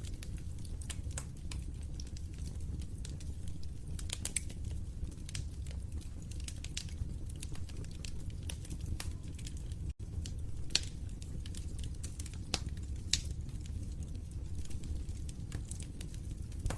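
Fire crackling: frequent irregular pops and snaps over a steady low rumble of burning. The sound cuts out for an instant about ten seconds in.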